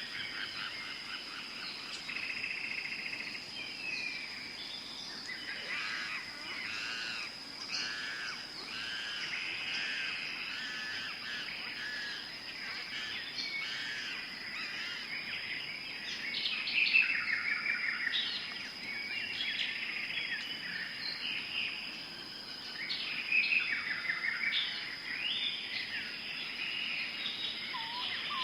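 Tropical forest ambience: many birds chirping and calling over one another over a steady high-pitched drone, with bursts of calls about halfway through and again later on.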